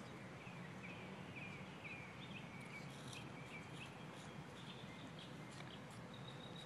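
Faint outdoor ambience with a small bird chirping: a quick run of short chirps, about three a second, then scattered higher notes and a thin, steady high note near the end.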